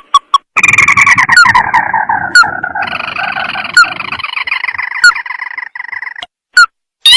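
Crake call used as a hunting lure: a loud, fast chattering trill that slides down in pitch and then steps higher partway through. It is broken by short sharp upswept notes about once a second, with brief chirps at the start and end.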